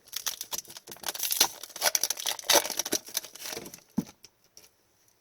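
A hockey card pack's foil wrapper crinkling and rustling as it is handled and torn open, a dense run of crackles for about four seconds, ending with a soft thump.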